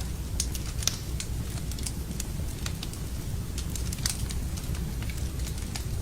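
Wood fire in a fireplace burning, with a steady low rumble of the flames and irregular sharp crackles and pops, the loudest about a second in and about four seconds in.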